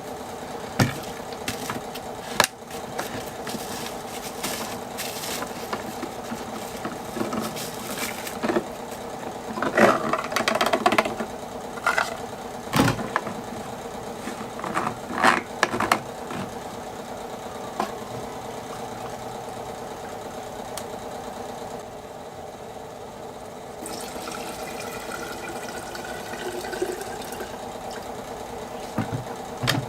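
Knocks and clinks of a fuel can and jar being handled over a steady background hum. Near the end comes a few seconds of liquid pouring, its pitch rising slightly as the jar fills with gasoline.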